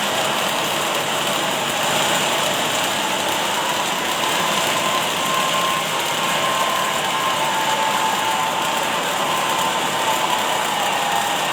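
Automatic welding machine running steadily: a continuous hiss and hum, with a faint wavering whine.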